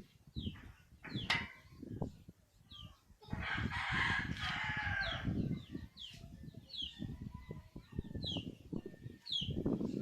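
A rooster crowing once, a call of about two and a half seconds beginning about three seconds in, among repeated short high chirps of small birds and scattered low knocks.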